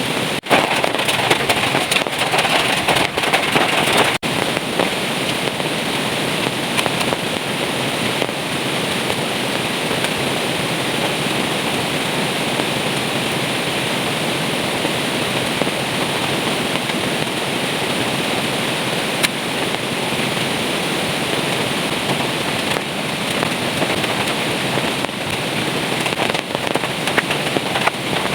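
Heavy rain pouring down steadily: a dense, even hiss peppered with fine crackling drop impacts.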